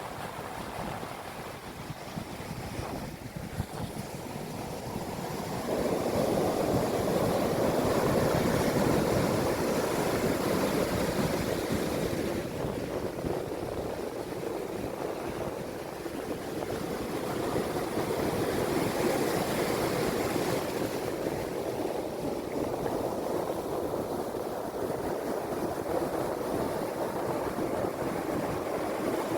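Atlantic sea waves breaking and washing on the shore, a steady wash of surf that swells louder about six seconds in and surges again later.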